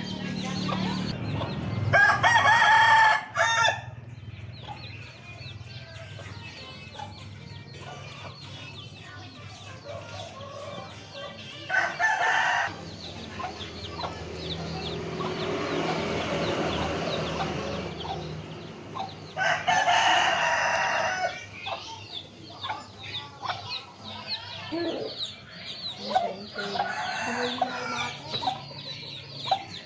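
Roosters crowing three times, each crow lasting a second or two, about two seconds in, near the middle and about two-thirds of the way through, with hens clucking and chicks cheeping in between.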